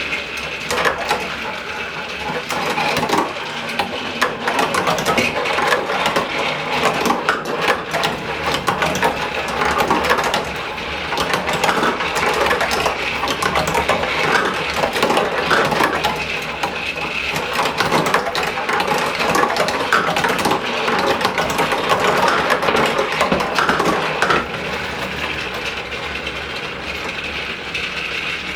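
Marbles clattering and rolling through a plastic marble run in a dense stream of rapid clicks, over the steady whir of a small battery toy motor. The clatter eases near the end.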